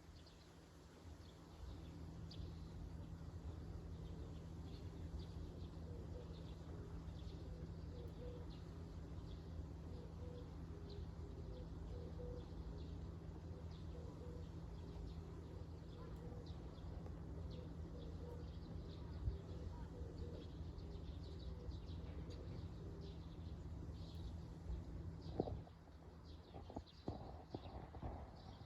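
Faint small birds chirping over a steady low outdoor rumble, with a few sharp knocks near the end.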